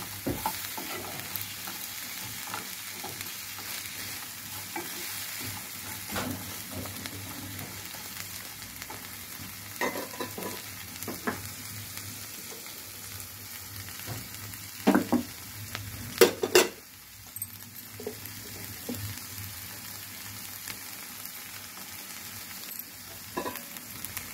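Chopped green capsicum sizzling as it stir-fries in a pan, a spatula scraping and tapping against the pan now and then, with a few louder knocks about two-thirds of the way through.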